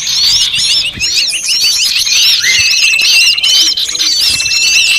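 Bird-lure recording of many small birds calling at once in an agitated chorus: rapid overlapping chirps and whistles, with a fast trill and, from about halfway through, one long level whistle.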